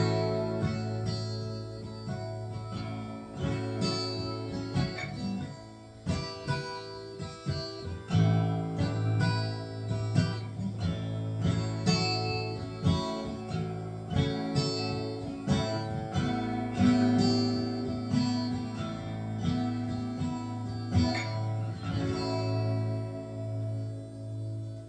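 Acoustic guitar in AADGBE tuning playing an instrumental passage with no singing: many separately picked notes and strums ringing over a steady low bass note.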